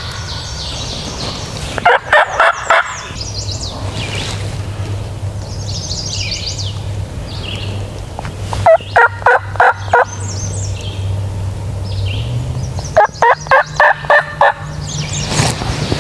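Male eastern wild turkey gobbling three times, each gobble a rapid rattling burst of about a second, with small songbirds chirping faintly between them.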